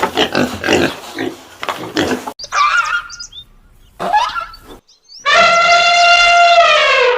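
Pig grunting for about two seconds. After a sudden cut come short pitched calls of another animal, then one long, loud call that drops in pitch at the end.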